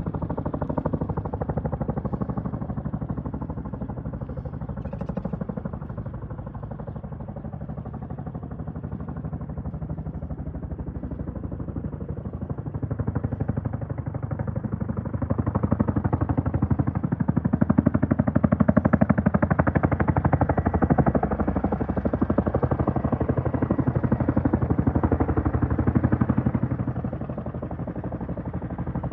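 Boeing CH-47D Chinook tandem-rotor helicopter, its rotor blades making a fast, steady chop with turbine engine noise beneath. The chop grows louder about halfway through as the helicopter comes in to land, then eases off near the end.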